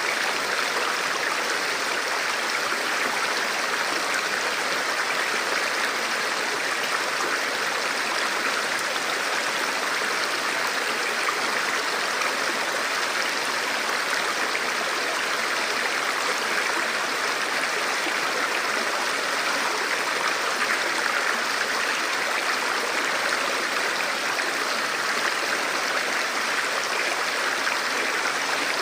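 Forest river flowing: a steady, even rush of water over rocks, with no change in level.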